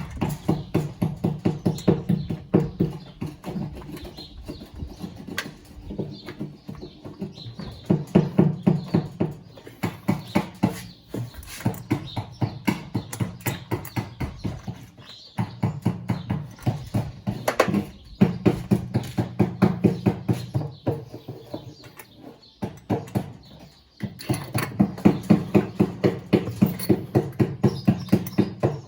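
Rapid, evenly spaced mechanical knocking, about five strikes a second, in runs of several seconds with short pauses between them, over a low hum.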